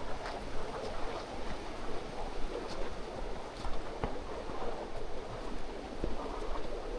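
Mountain stream rushing steadily over rocks, an even, unbroken sound of flowing water.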